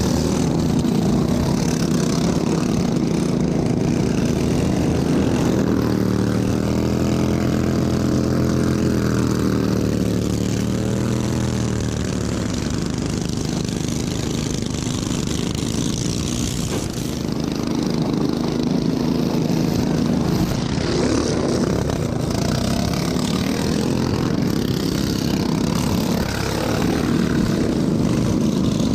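Racing lawn tractor engine running hard without a break. Its pitch swings up and down for several seconds near the middle as the revs change.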